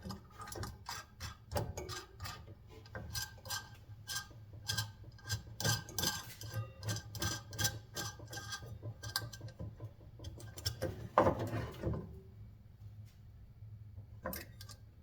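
Hand work on a small electric fan motor's metal housing: irregular clicks, knocks and brief scraping of metal parts and tools, with a louder cluster of knocks a little after the middle.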